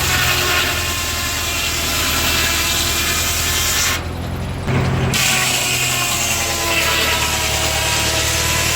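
Sawmill saw cutting wood, with a steady engine running underneath. The cutting noise drops out abruptly for about a second partway through, then resumes.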